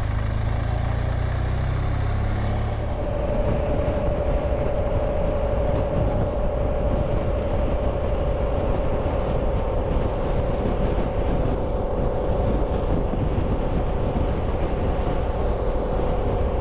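BMW R1200GSA boxer-twin motorcycle being ridden, heard through the onboard camera microphone. A low engine rumble in the first three seconds gives way to a steady hum under continuous wind and road noise.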